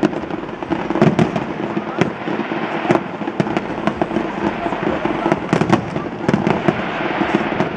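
Aerial fireworks shells bursting in quick, irregular succession: a dense string of sharp bangs, several close together at times, over a continuous rumble of further bursts.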